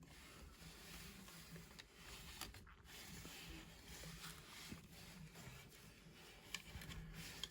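Near silence: faint room tone with a low hum and a few soft handling rustles and ticks.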